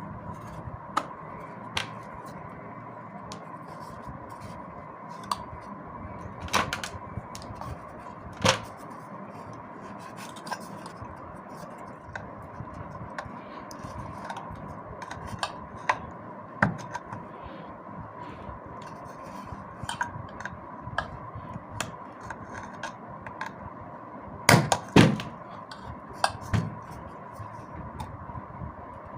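Scattered clicks, taps and knocks of parts being handled and fitted as the outer cover goes onto a reassembled vacuum cleaner motor. The loudest is a quick cluster of knocks about 25 seconds in, all over a faint steady tone.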